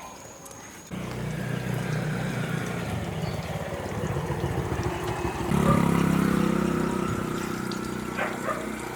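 An engine running steadily. It comes in suddenly about a second in and gets louder about halfway through.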